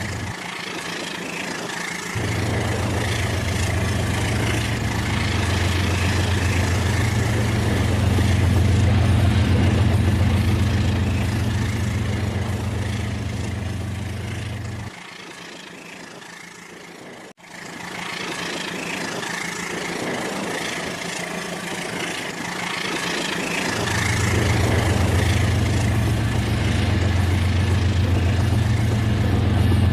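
Toy train running on its track, a steady whirring hiss with a low engine-like hum. The hum cuts out twice, for a couple of seconds near the start and for about nine seconds past the middle, then comes back.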